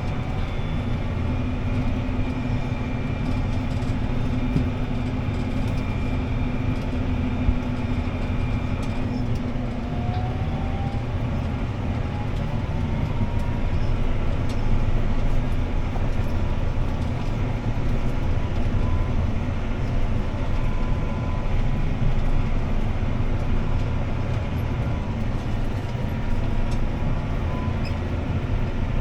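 CLAAS ARION 650 tractor's six-cylinder diesel running steadily under load while pulling a disc harrow through stubble, heard from inside the cab as a constant low drone. A faint whine rises in pitch about ten seconds in, then holds steady.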